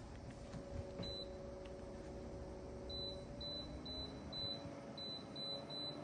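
Personal evaporative air cooler's control beeper sounding short high-pitched beeps as its settings are pressed: one about a second in, then seven in quick succession, about two a second. A steady low fan hum runs underneath.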